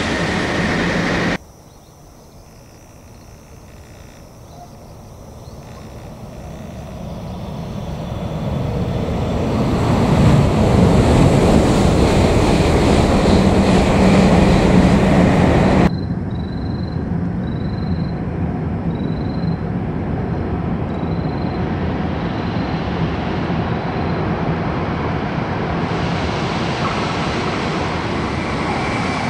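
Shinkansen trains running: an approaching train's rumble swells over about ten seconds to a loud, steady pass with a low hum. After a cut, the steady rumble of an E4 Series Max double-deck shinkansen leaving a tunnel, with a short high chirp repeating about once a second above it.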